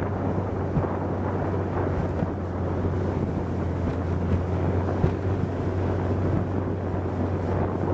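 Long-tail boat engine running at a steady speed, a constant low drone, with wind buffeting the microphone and a few brief thumps.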